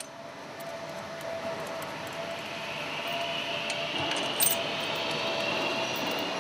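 Steady mechanical hum of machinery with a faint whine that rises in pitch over the second half, and a brief metallic jingle about four and a half seconds in.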